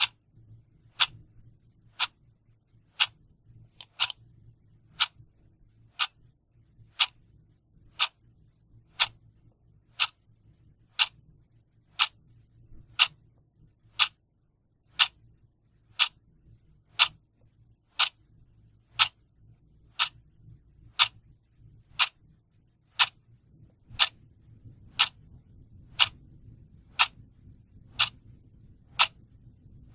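Clock ticking steadily at one sharp tick a second.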